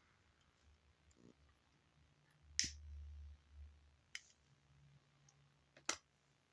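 Three sharp clicks a second or two apart, the first with a brief low rumble.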